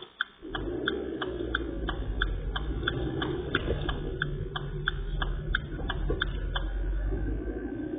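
Garbage truck's engine and machinery rumbling, coming in loud about half a second in, over a regular ticking about three times a second that stops near the end.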